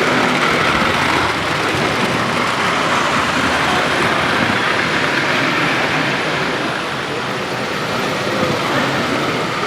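Steady, dense din of a busy model train show hall, with no single sound standing out.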